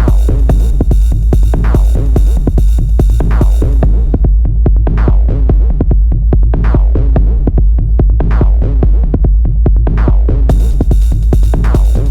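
Electronic techno groove generated with the Dyad Max for Live synth: a steady drum-machine pulse under synth notes that sweep downward, repeating about every second and a half. About four seconds in the high hiss and top end cut out, and they come back suddenly near the end.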